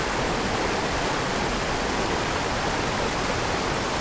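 Steady rush of water from a small mountain stream, an even hiss.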